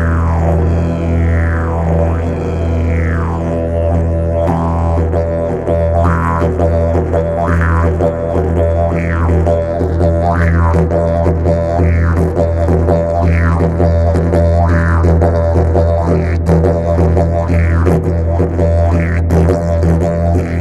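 Didgeridoo playing a continuous low drone, with its tone swept over and over into a falling 'wah' by the player's mouth shaping, roughly once every second and a half.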